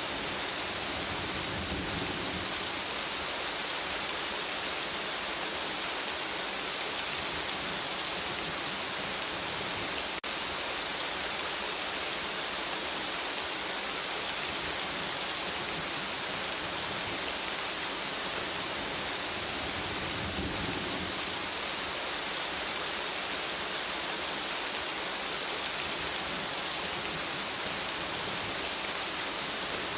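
Steady rainfall in a forest: an even hiss of rain on leaves and ground, with no pauses. Faint low rumbles swell briefly twice, near the start and about two-thirds of the way through.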